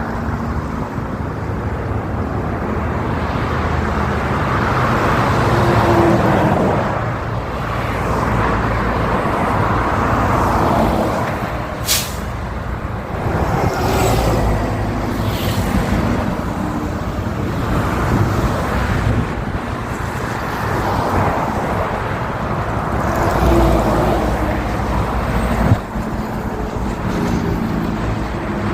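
Highway traffic: vehicles passing one after another, engine hum and tyre noise swelling and fading, with a brief sharp click about twelve seconds in.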